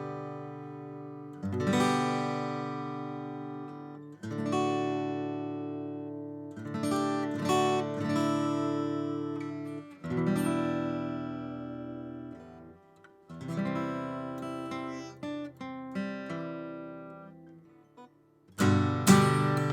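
Seagull SWS Maritime acoustic guitar, solid spruce top with solid mahogany back and sides, strummed one chord at a time, each chord left to ring and fade out before the next. Near the end, louder and quicker strumming begins.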